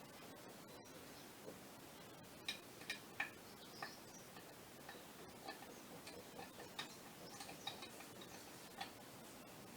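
Scattered light clicks and taps of hand tools and small metal parts being handled, about a dozen at irregular intervals over a faint, steady background.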